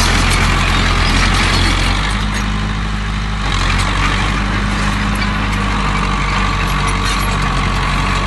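Heavy diesel engine of earthmoving machinery running steadily under load, its note and loudness dropping slightly about two seconds in.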